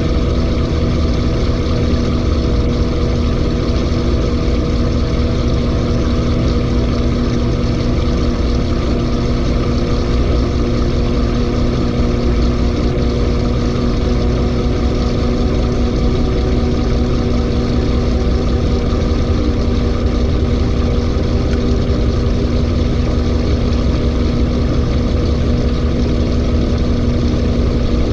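LG 18 kg washing machine, overloaded with clothes, in its final spin: the drum turns at steady high speed with a constant hum and whir.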